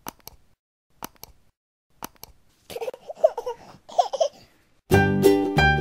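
Three double clicks about a second apart, then a high, young voice laughing and babbling for under two seconds, then cheerful electric-piano music starts near the end.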